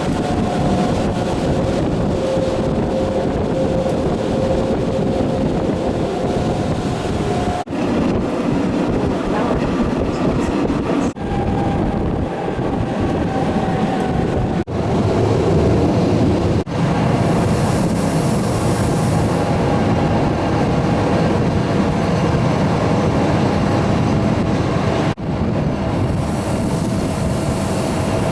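Train running along the track with a steady rumble and a faint motor whine. The sound breaks off for an instant several times.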